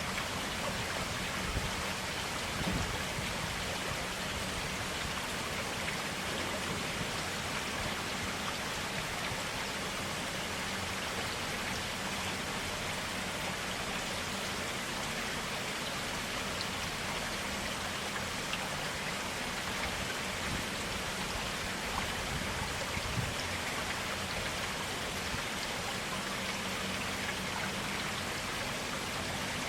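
Clear water running steadily in a forest stream, an even wash of splashing with no pauses.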